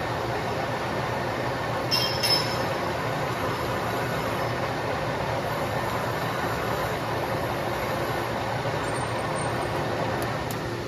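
Large metalworking lathe running steadily, with a quick pair of sharp metallic clinks about two seconds in.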